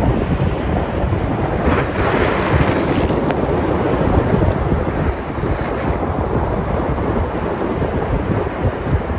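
Sea surf washing in, with a wave breaking about two seconds in that brings a brighter hiss. Wind buffets the microphone.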